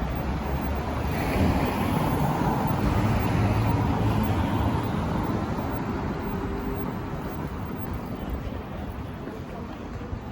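A road vehicle passing by: a rushing noise with a low rumble that swells about a second in, peaks a few seconds later and then slowly fades away.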